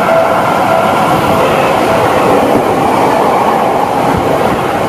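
Seibu 40000 series electric train passing close by: a loud, steady rush of wheels on rails.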